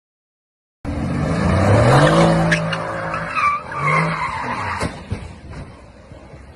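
Car engine revving hard with tyres squealing and skidding, cutting in suddenly about a second in; the engine rises in pitch again around four seconds, a sharp knock comes just before five seconds, and the sound then dies down.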